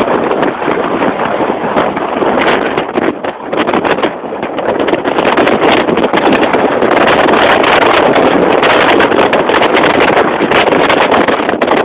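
Wind rushing and buffeting over the microphone of a moving motorbike, a loud crackling rush that drowns out the engine. It dips briefly about three seconds in, then grows louder from about five seconds.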